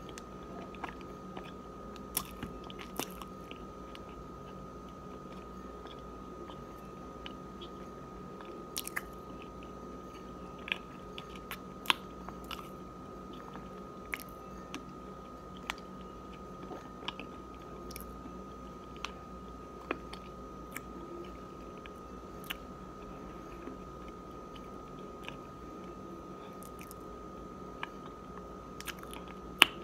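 Close-up chewing and biting of chunks of cornstarch: irregular sharp crunches and clicks, a few every couple of seconds, the sharpest about twelve seconds in and again just before the end.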